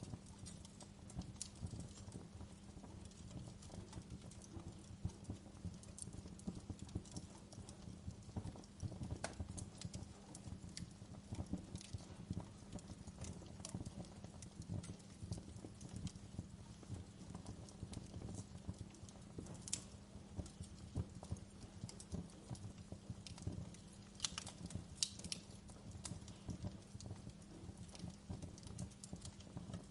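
Wood fire burning in a fireplace: irregular crackles and pops over a low steady rumble.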